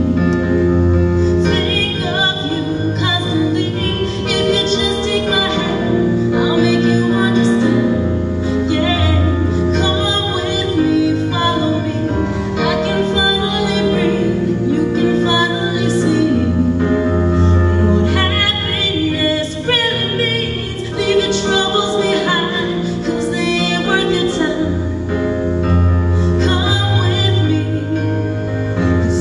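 A woman singing a song over instrumental accompaniment, with held bass notes that change every couple of seconds.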